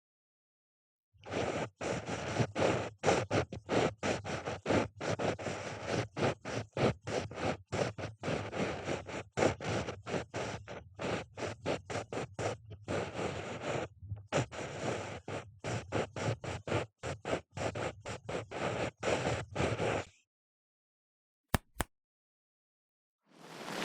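Ear pick scratching and scraping in quick short strokes, stopping about twenty seconds in. Two sharp clicks follow, then a steady hiss begins near the end.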